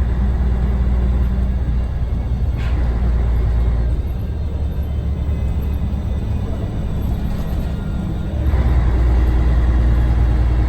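Scania DSC1171 11-litre six-cylinder diesel engine running in a bus, a steady low drone; about eight and a half seconds in it grows louder and fuller.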